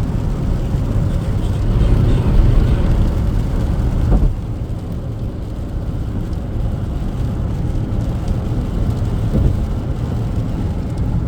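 Steady low road and engine rumble heard from inside a moving car, easing slightly about four seconds in.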